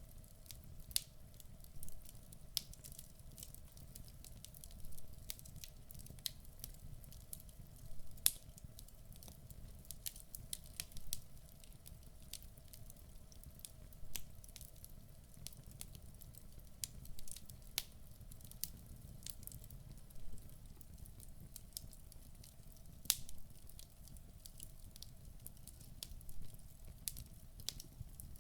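Wood fire burning in a fireplace: irregular sharp crackles and pops of the burning logs over a low rumble of the flames.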